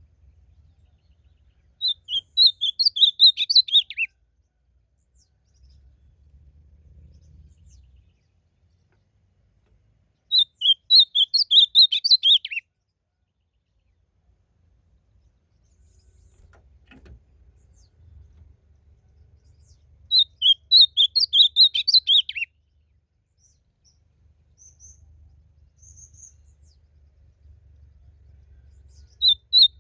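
Ultramarine grosbeak (azulão) singing: short warbled phrases about two seconds long, repeated about every nine seconds, each ending on a falling note. A faint low rumble sits between the phrases.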